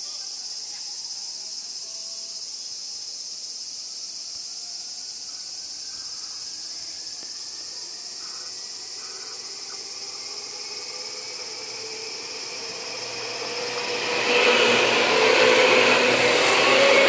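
Seibu 2000-series electric commuter train pulling away from a station toward the listener: faint motor tones climbing in pitch as it gathers speed, under a steady high insect drone. About 14 seconds in, the train passes close by, with loud wheel-and-rail noise and motor sound.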